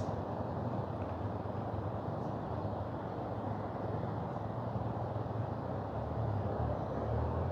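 Steady rushing of a mountain river, an even noise heavy in the low end.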